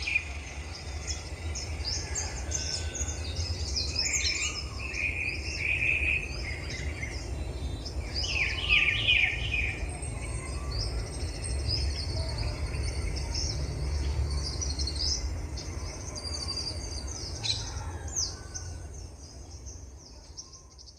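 Several small birds chirping and singing together in quick, overlapping high calls, with lower trilled phrases about four seconds in and again about eight seconds in, over a steady low rumble; the whole recording fades out near the end.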